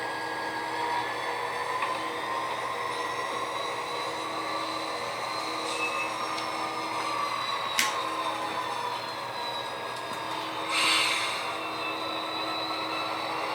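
HO scale model locomotive running under sound-decoder control, its engine sound played through the model's small speaker. Several whining tones slowly rise and fall, with a sharp click about eight seconds in and a short hiss near eleven seconds.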